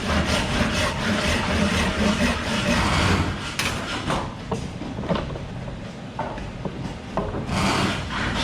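A hand tool scraping and cutting wood in rough, continuous strokes. It pauses about three seconds in, with a few light knocks, and resumes near the end.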